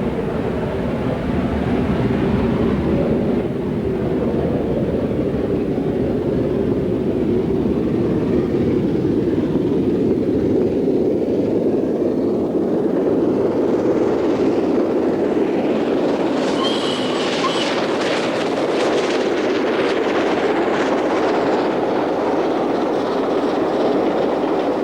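LNER V2 class three-cylinder steam locomotive Green Arrow working a train, a loud steady running noise. From about fourteen seconds in, a sharper rapid clatter of wheels over the rails joins it for several seconds.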